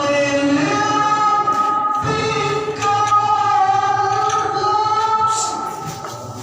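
A male qari reciting the Quran in the melodic tilawah style, holding long, high, slowly bending notes through a Toa loudspeaker system. The voice fades away near the end.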